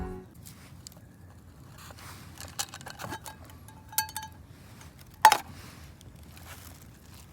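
Small clinks and taps of handled objects, a few of them ringing briefly like metal or glass, with one sharper knock about five seconds in.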